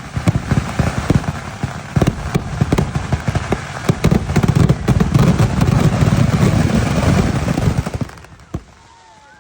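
Kerala temple fireworks (vedikkettu): a dense, rapid string of firecracker bangs going off in quick succession, growing heavier toward the middle, then stopping suddenly about eight seconds in, with one last bang just after.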